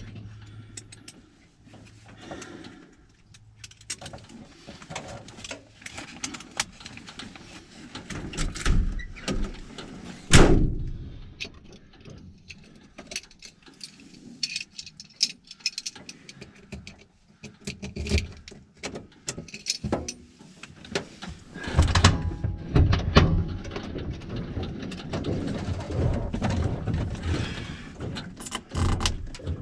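Irregular clunks, knocks and rattles of gear being handled and loaded into a light aircraft, with one heavy thump about ten seconds in and busier handling near the end.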